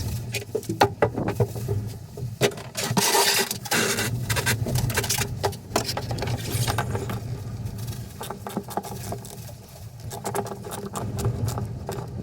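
A marine diesel engine running steadily with a low hum, under repeated clicks, knocks and scraping from parts and tools being handled.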